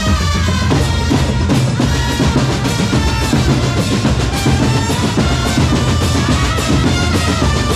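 A drum corps playing loud, dense drumming with bass drum and snare rolls under a wavering melody line.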